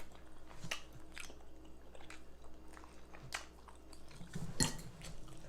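A person chewing and biting a mouthful of baked chicken and rice close to the microphone, with many small wet mouth clicks scattered throughout and a sharper knock about four and a half seconds in.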